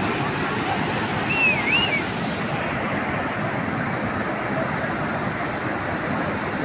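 Flash floodwater rushing: a steady, dense noise of fast-moving water. A short wavering high call, like a whistle, cuts through about a second and a half in.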